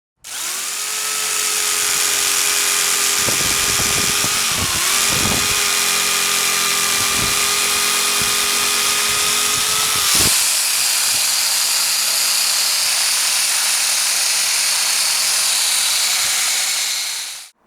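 Handheld electric power tool running steadily with a strong hiss over its motor tone. Its pitch dips briefly under load about five seconds in and again about ten seconds in.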